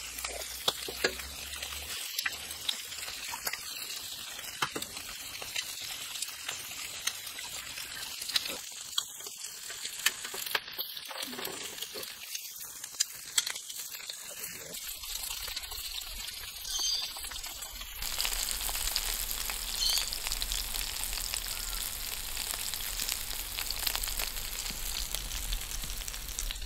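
Bacon, sausages and egg-filled tomato halves frying in a steel pan over a wood fire: a steady sizzle with frequent sharp pops. The sizzle grows louder about two-thirds of the way through.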